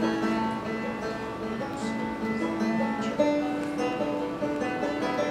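Banjo playing a slow picked melody.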